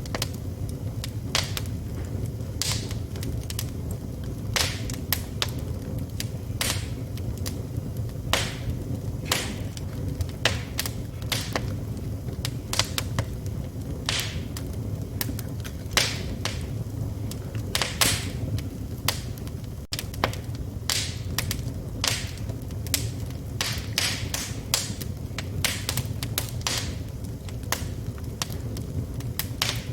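Wood fire burning in a fireplace: irregular sharp pops and snaps, several a second, over a steady low rumble of the flames.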